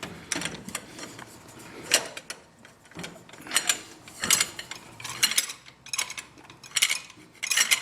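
Hand socket ratchet clicking in short runs about once a second as it is swung back and forth to tighten a new spin-on oil filter.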